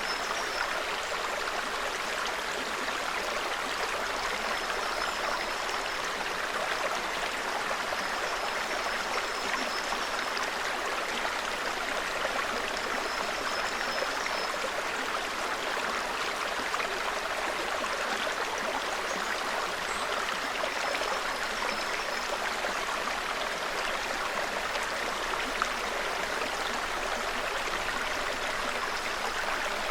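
Small forest stream babbling steadily over rocks, with a bird's short high-pitched call repeated faintly every few seconds.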